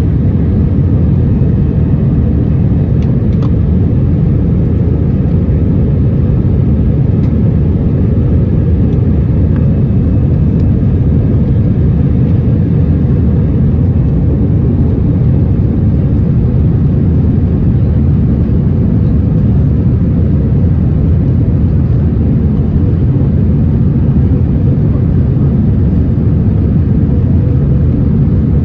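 Steady cabin noise inside an Airbus A319 airliner: a loud, even rumble of the jet engines and airflow, unchanging throughout.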